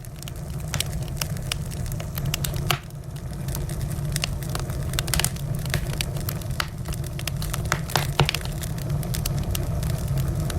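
Wood fire crackling in a fireplace: irregular sharp pops and snaps over a steady low rumble of the flames, with a few louder cracks about a third of the way in and near the end.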